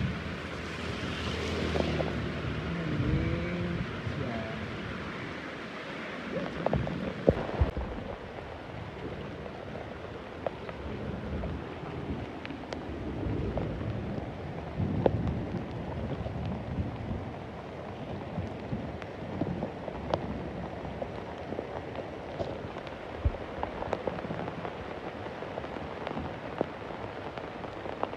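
Steady rain with many sharp drops striking hard surfaces close by, and some low swells of sound underneath. In the first few seconds a few faint, curving tones rise and fall behind the rain.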